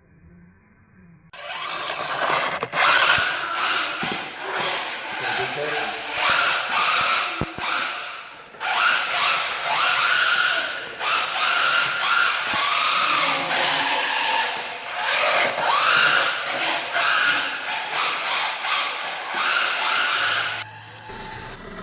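UDIRC UD-1603 RC rally car with an upgraded brushless motor, the motor whining up and down again and again as it accelerates and eases off, over a rushing noise. It starts about a second in and cuts off suddenly near the end.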